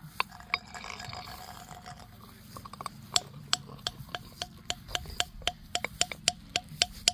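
Hard objects struck again and again, each tap a sharp clink with a brief ringing tone; a few taps in the first second, then a steady run of about three taps a second from about two and a half seconds in.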